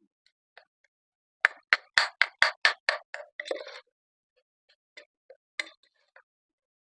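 A spoon knocking against the cooking pot as the masala is stirred: a quick run of about seven sharp knocks, followed by a short scrape and a few light taps.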